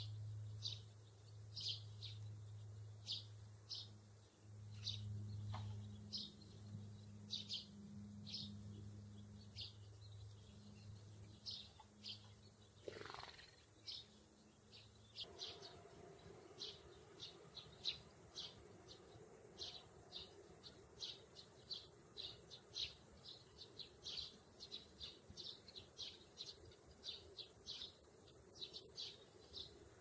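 Small songbird chirping, faint short high chirps repeated every second or so, coming faster in the second half. A low steady hum lies under the first half.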